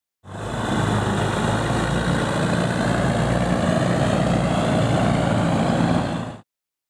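Heavy truck engine running steadily at idle. It comes in quickly just after the start and cuts off abruptly near the end.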